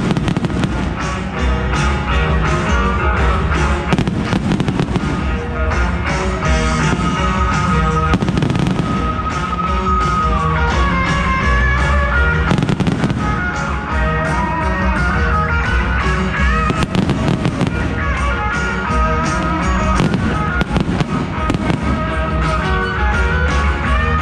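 Fireworks bursting and crackling again and again over loud show music.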